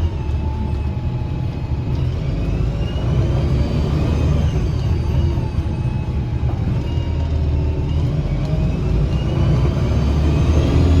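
2009 Gillig BRT 40-foot bus with a Voith transmission, heard from inside the cabin: a steady low engine and drivetrain rumble. Thin whistling-like whines rise and fall in pitch several times as the bus changes speed.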